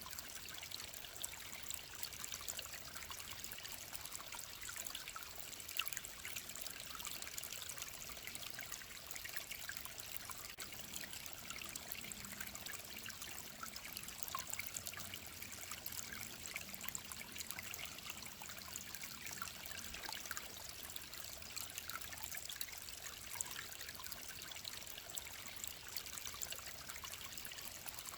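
Clear mountain stream trickling steadily, a constant rush of water full of small splashes.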